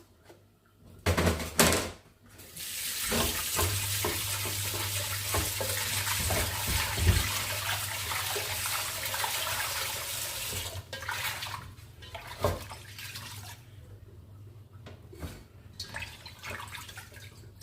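Two loud knocks, then a kitchen tap running steadily into the sink for about eight seconds before it is turned off. Quieter knocks and clatter follow.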